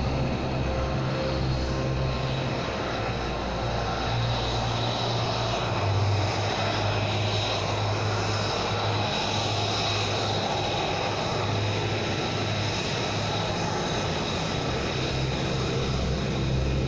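Aircraft engines running, a steady rush with a high whine on top and no change in pitch.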